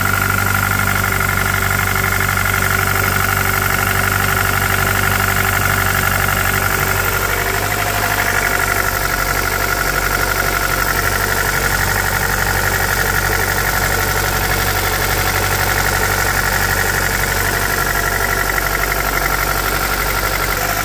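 Jeep Patriot's 2.4-litre four-cylinder engine idling steadily, freshly started after an extreme-cold start at about −40°. Its tone shifts slightly about eight seconds in.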